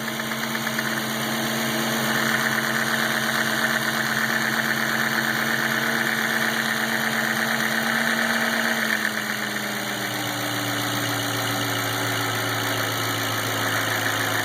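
Audi S4 B6's 4.2-litre V8 idling while the intake flapper linkage is pressed by hand, changing the engine's noise. About nine seconds in, the engine note drops in pitch and the sound shifts. The noise under test is the intermittent ticking the owner blames on the intake flapper.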